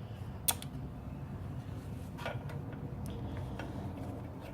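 Small metal parts (a nut and washers) being handled: one sharp metallic click about half a second in, then a few fainter taps and clicks, over a low steady hum.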